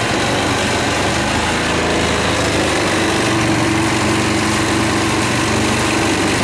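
A small engine running steadily, with a steady hum that settles to an even pitch about halfway through.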